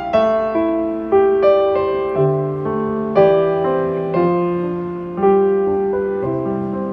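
Background music: a slow, gentle piano melody, notes struck every half second to a second and left to ring.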